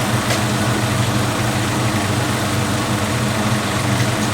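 Kawasaki Fury 125 motorcycle engine idling steadily.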